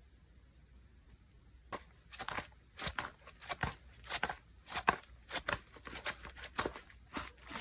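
Slime being squeezed and stretched by hand, making a run of crackly clicks and pops about twice a second, starting a couple of seconds in.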